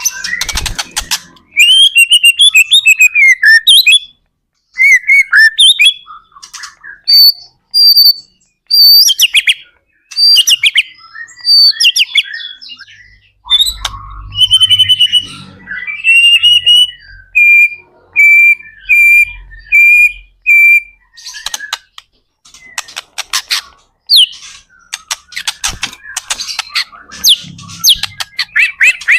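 White-rumped shama (murai batu) in full, vigorous song: varied loud whistled phrases, a run of about six evenly spaced repeated notes in the middle, and rapid clicking rattles near the start and end.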